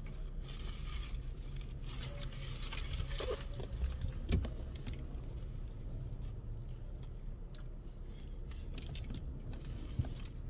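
Two people chewing and biting into fried chicken sandwiches: small wet clicks and crunches of eating, over a steady low rumble in the car, with one knock about four seconds in.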